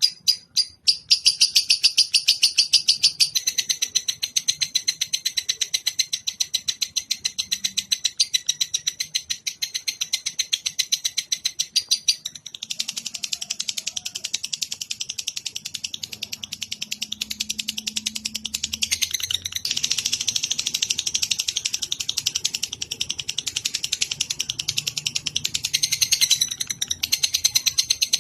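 Recorded songbird song used as tutoring ('masteran') audio: a long, fast, unbroken chatter of high notes, many per second. The chatter dips briefly about 12 seconds in, resumes denser, and stumbles again near the end.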